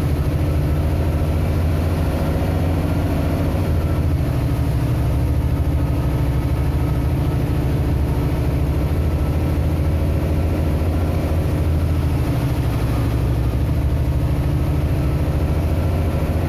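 Vehicle engine running steadily with a low drone.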